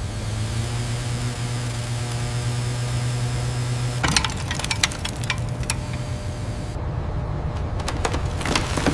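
A steady motor hum, broken about four seconds in by a run of sharp clicks and knocks, with a second run of clicks near the end.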